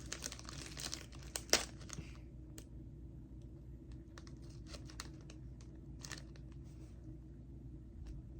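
Plastic snack packet crinkling as it is torn open and handled: dense crackling for the first two seconds, loudest about a second and a half in, then a few scattered crinkles.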